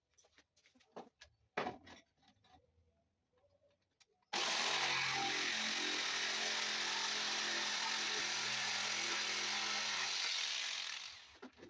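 A few light knocks of wood being handled, then an electric power tool starts abruptly about four seconds in and runs steadily for about six seconds, cutting a wooden board, before winding down near the end.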